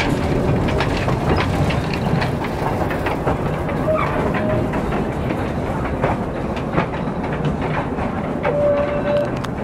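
Small narrow-gauge railway train running on its track, its wheels clattering with many short clicks, and two brief squealing tones about four seconds in and near the end.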